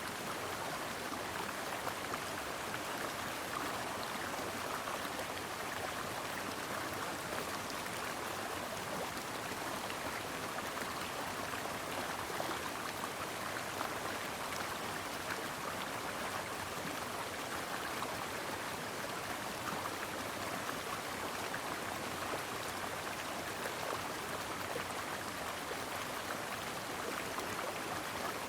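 Stream water flowing over rocks: a steady, even rush of running water.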